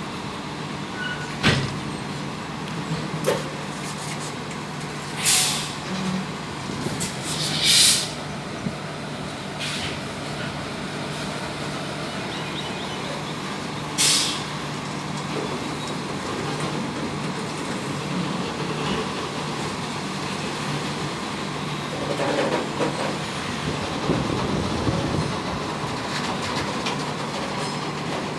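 Freight train hauled by a WAG9 electric locomotive moving off slowly: a steady hum and rumble, with a sharp click early on and several short hisses of air a few seconds apart, the rolling rumble growing near the end.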